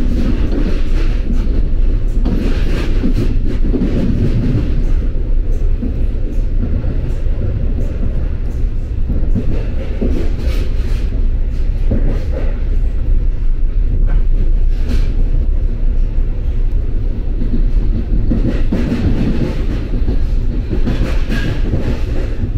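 Interior of an NJ Transit commuter train car running at speed: a steady low rumble of wheels on rail, with occasional brief clicks from the track.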